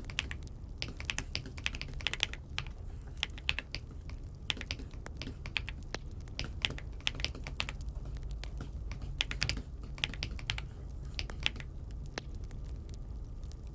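Typing on an Aula F75 mechanical keyboard: a quick, irregular run of key clicks that thins out near the end, over a steady low hum.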